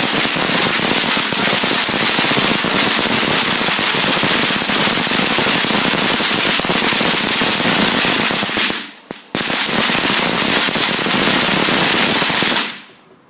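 A garden firework crackling loudly: a dense, continuous rattle of tiny rapid pops. It breaks off for a moment about nine seconds in, resumes, and stops shortly before the end.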